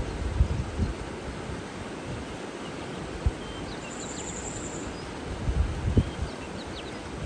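Outdoor nature ambience: a steady rushing background with gusts of wind buffeting the microphone in low thumps, and faint scattered bird chirps, with a short high buzzy trill about four seconds in.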